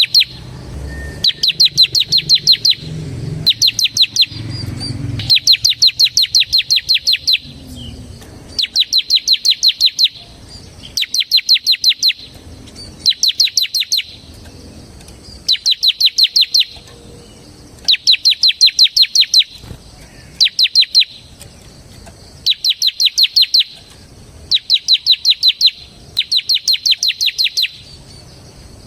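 Ciblek (bar-winged prinia) singing its rapid, unbroken 'ngebren' song: bursts of fast, sharp, evenly repeated high notes, each one to two seconds long, about every two seconds. A low rumble sits under the first few seconds.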